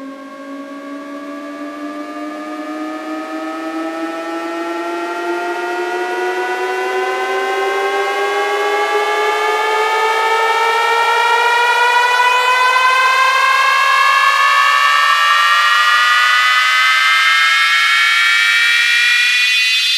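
Synthesized rising sweep, a DJ riser: several layered pitched tones glide slowly upward and grow steadily louder, then cut off at the very end.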